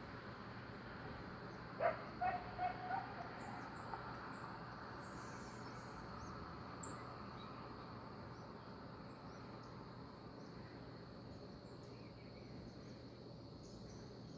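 Outdoor ambience of insects: a steady high drone with scattered short high chirps. About two seconds in comes a quick run of four sharp sounds, the first the loudest.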